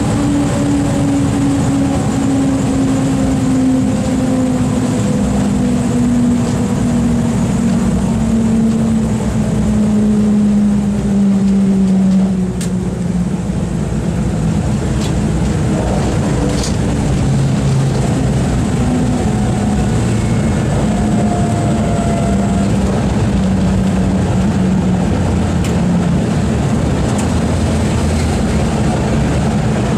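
Boeing B-29's four big radial piston engines running loudly, the engine note falling slowly in pitch for about twelve seconds and then holding steady.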